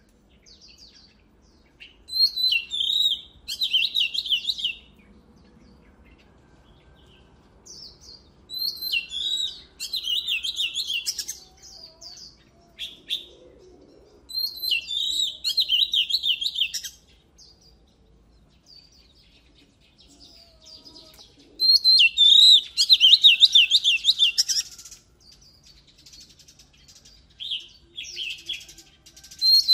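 Oriental magpie-robin singing: four loud bursts of rapid, repeated whistled notes, each lasting a few seconds, with short quieter pauses holding faint calls between them.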